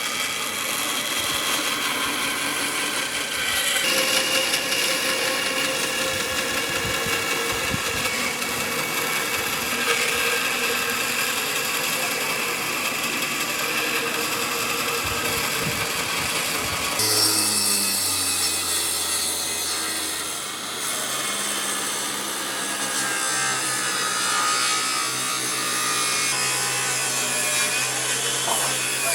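Woodworking on wood: sawing and rubbing, with power tools. The sound changes abruptly about 4 seconds and 17 seconds in; after the second change a machine's steady hum runs under the work.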